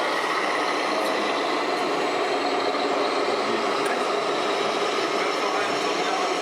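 Scale RC model trucks running, their onboard sound modules playing steady diesel truck engine sounds.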